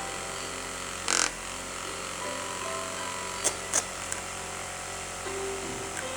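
Electric fan running with a steady motor whir. A short noisy burst comes about a second in, and a few sharp clicks follow near the middle.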